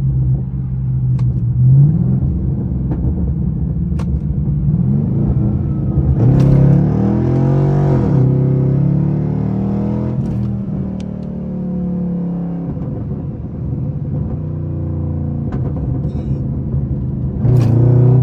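Pontiac G8 GT's 6.0-litre V8 through a straight-piped exhaust (muffler deleted), a deep steady drone while driving. About six seconds in it revs up through the downshifts and falls back sharply around eight seconds in, then settles, with another loud surge near the end.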